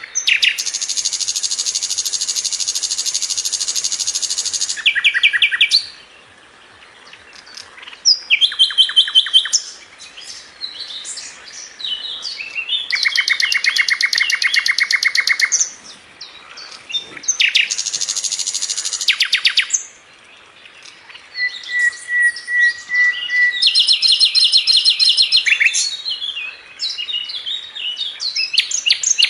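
Sikatan londo flycatcher singing a series of fast, dense trills of rapidly repeated notes, each phrase lasting one to four seconds, with short pauses and a few single whistled notes in between.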